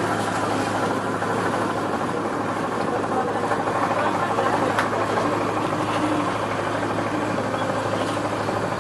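Riverboat's diesel engine running steadily with an even drone.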